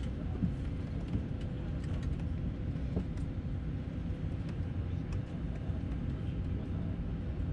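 Steady low rumble inside an Airbus A319 passenger cabin, with a faint constant hum and a few light clicks.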